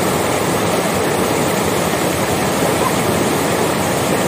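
Steady, loud rush of a waterfall pouring onto rocks and water.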